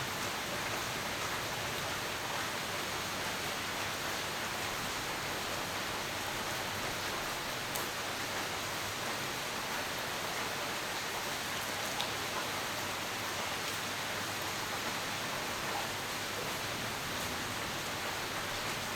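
Steady rain falling: an even hiss at a constant level, with an occasional faint tick of a drop.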